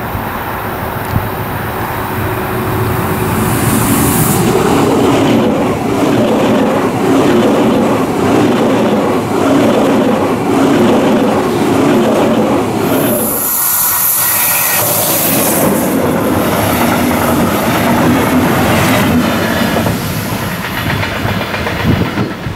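ICE electric train approaching and passing close by. The rolling noise of wheels on rails builds over the first few seconds, runs loud with a regular beat as the cars go by, and tails off near the end.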